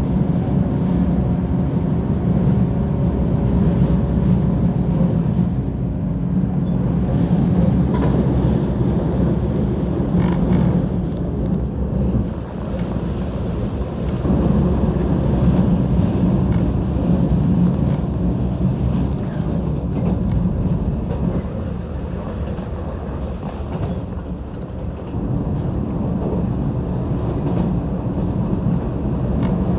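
Steady running noise of a JR 185 series electric train heard from inside the passenger car: a continuous low rumble of wheels on rail and running gear, with a couple of faint ticks about 8 and 10 seconds in.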